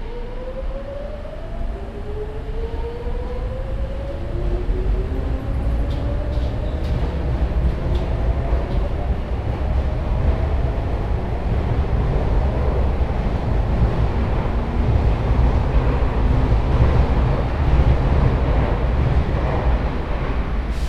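Sotetsu New 7000 series electric train's Hitachi GTO inverter and traction motors accelerating, heard from on board. The inverter whine rises in pitch in several steps over the first ten seconds or so, then the low rumble and wheel-on-rail noise grow louder as speed builds.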